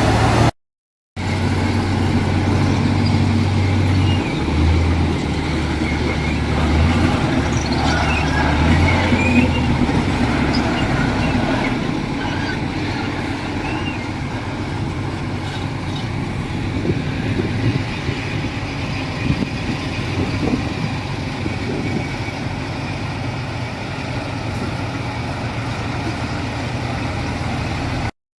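Heavy diesel construction machinery running, its engine note stepping up and down under load for the first dozen seconds, then a steadier working rumble. The sound drops out briefly about half a second in.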